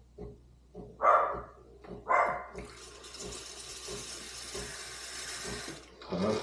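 Two short dog barks, then the steam wand of a Breville Barista Touch Express hissing for about three seconds as it is purged to flush it out after frothing milk, cutting off sharply near the end. A low regular pulsing runs underneath.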